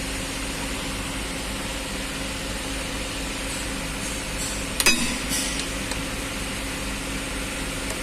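Steady mechanical hum with two constant tones, with a brief clatter about five seconds in.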